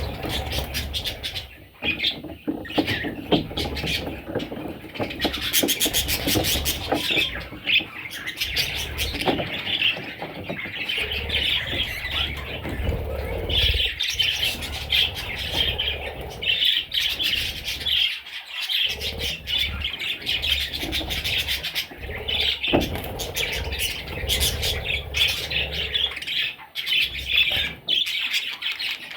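Pet budgerigars chattering continuously in a busy flock warble of rapid chirps, with occasional harsher squawks.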